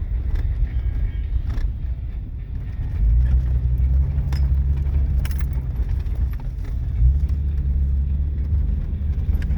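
Car driving slowly over muddy ground: a low engine and tyre rumble that swells about three seconds in and again near the end, with scattered light knocks and rattles.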